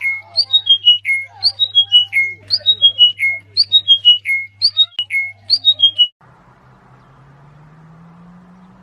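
A bird singing a repeated phrase of about five clear whistled notes, each lower than the last, about once a second over a steady low hum. The song cuts off suddenly about six seconds in, leaving a faint low hum with a slowly rising tone.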